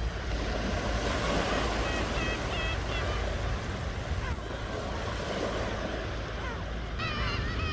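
Ocean waves washing continuously, with a low rumble of wind on the microphone. Short bird calls come through around two seconds in, and a flurry of chirping calls starts near the end.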